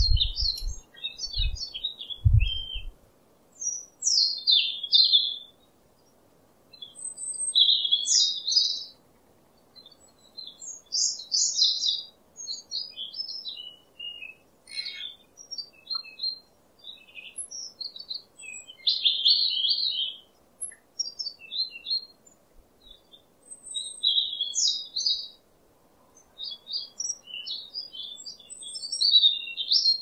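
Bird chirping in quick, high twittering phrases of about a second each, repeated every couple of seconds with short pauses between. A few low thumps come in the first two seconds.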